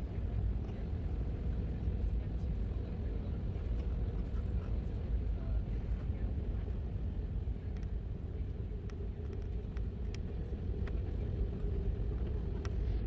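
Airbus A319 cabin noise: the steady low rumble of the jet engines and airflow heard from a passenger seat, with a few faint ticks.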